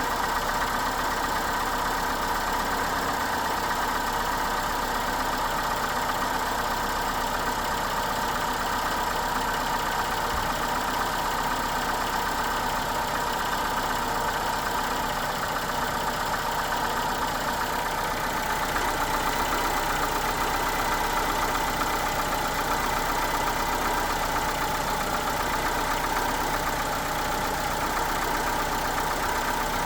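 Citroën C4 TU5JP4 1.6-litre 16-valve petrol four-cylinder idling steadily after a start in near-freezing air, with a steady mid-pitched whine over the running. The owner is recording it as the engine's noise on a cold start. It grows slightly louder about two-thirds of the way through.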